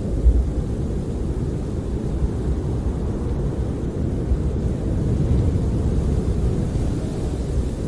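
Snowstorm wind blowing against a camper, heard from inside as a steady, deep, muffled rumble that swells a little now and then.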